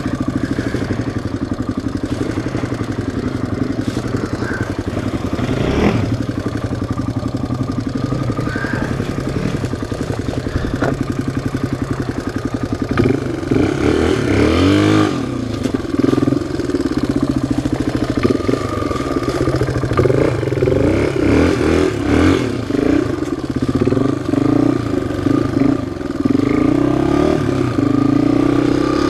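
Single-cylinder four-stroke off-road engine running at a steady speed, then revving up and down with the throttle from about halfway through.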